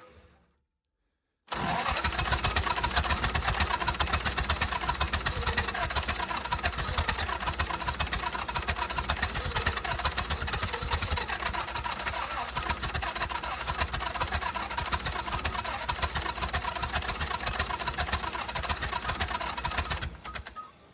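Welding machine's engine being cranked over by its starter on a cold start at −20, a fast, even chugging that cuts in after a second and a half of silence and stops shortly before the end.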